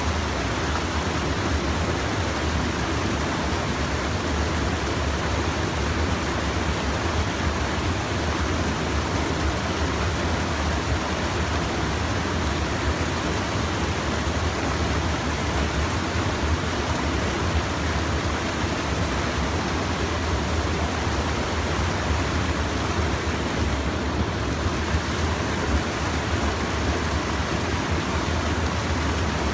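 Stream water rushing, a steady, even hiss that does not change.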